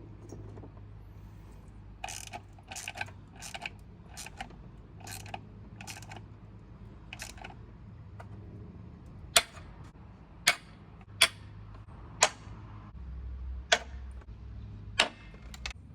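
Click-type torque wrench ratcheting a bolt down in a string of light clicks. Then come several louder, sharp single clicks about a second apart: the wrench breaking as it reaches its set torque.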